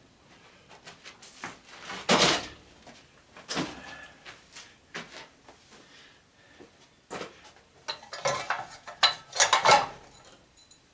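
Metal hand tools clinking and clattering as they are set down and put away, with scattered knocks and scrapes. The loudest clatter comes about two seconds in, and a busier run of clanks comes near the end.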